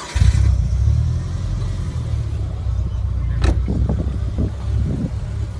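Car engine starting, then running with a steady low rumble. A sharp click is heard about three and a half seconds in.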